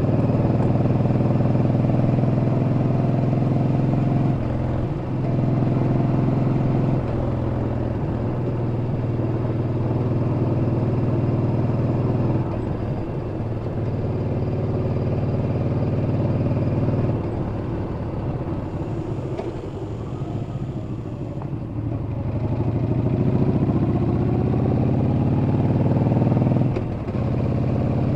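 Yamaha XV950 (Bolt) air-cooled V-twin engine running under way. The engine note eases off and picks up again several times, and climbs in pitch under acceleration late on.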